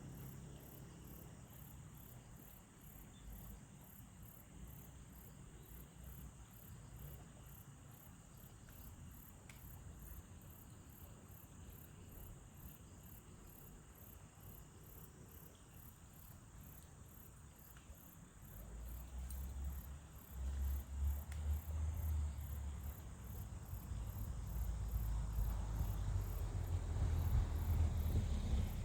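Crickets chirping in a steady high-pitched pulse, about two or three chirps a second. About two-thirds of the way through, a low rumble comes in and grows louder.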